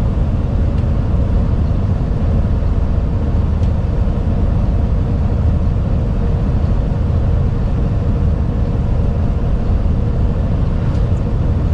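Steady engine drone and road noise inside the cab of a moving truck, heavy in the low end with a faint constant hum.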